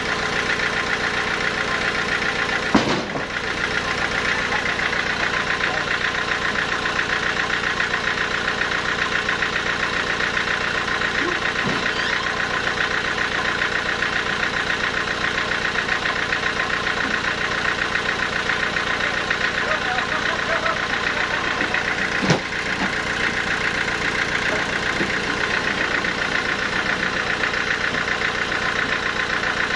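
Sawmill machinery running steadily, a continuous engine-like drone with a fast, even pulse. There are two sharp knocks, about three seconds in and again about twenty-two seconds in.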